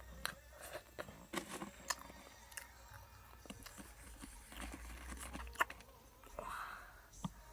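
A person chewing and eating close to the microphone: scattered crisp clicks and crunches at irregular intervals, with a short rustling noise near the end.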